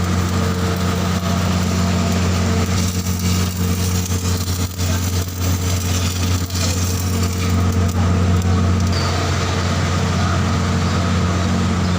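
Arc welding on a steel pipe: a steady crackling hiss from the arc over a loud, steady low machine hum.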